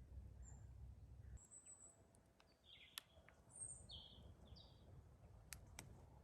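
Faint birds chirping: a handful of short, high calls scattered through an otherwise quiet outdoor background. A low rumble stops about a second and a half in, and a few sharp clicks come near the middle and end.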